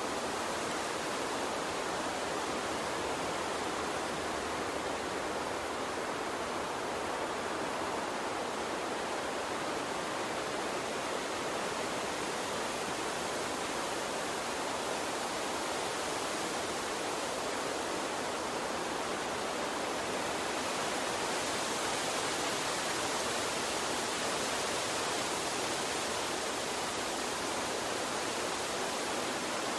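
Small stream flowing steadily, an even rushing of water with no breaks. The hiss in the upper range grows a little brighter for a few seconds past the middle.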